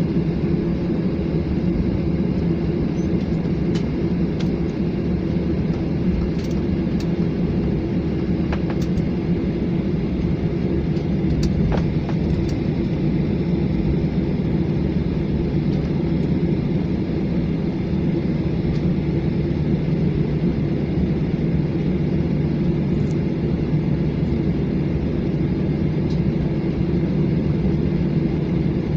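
Garuda Indonesia jet airliner's engines and airframe, a steady loud rumble and hum that neither rises nor falls, with a few faint clicks.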